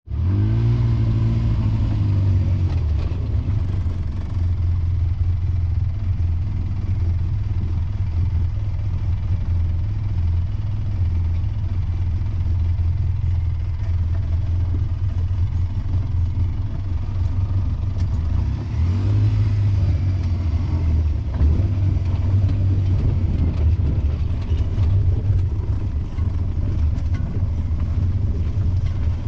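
Vehicle engine running steadily at low revs while riding downhill, its pitch rising briefly as it revs near the start and again about two-thirds of the way through.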